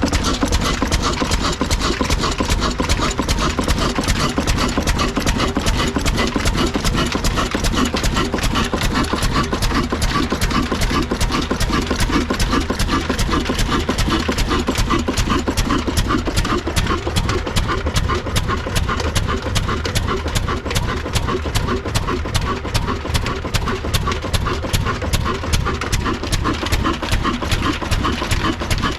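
Old single-cylinder desi diesel engine running steadily with a rapid, even exhaust beat, driving a village flour mill.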